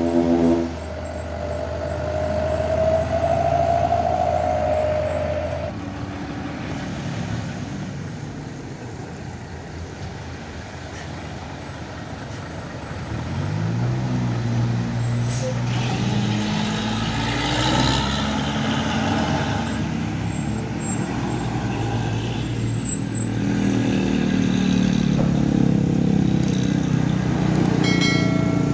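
Heavy diesel trucks labouring up a steep grade, their engine note stepping up and down in pitch as they shift gears and growing louder near the end. A horn blast cuts off about a second in.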